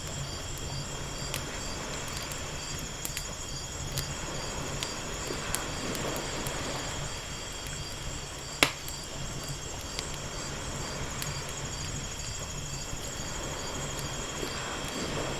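Wood fire crackling with scattered pops, one sharp loud pop about halfway through, over gentle ocean waves washing in twice. A steady, high, pulsing chirring runs underneath.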